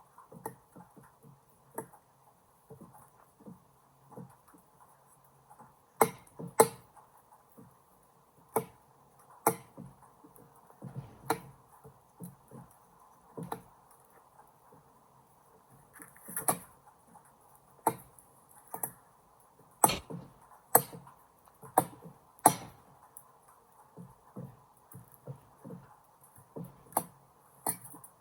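Irregular sharp knocks and cracks, some loud, as a small plastic toy pencil is struck and broken apart, about one strike every second or two and bunched more closely near the end.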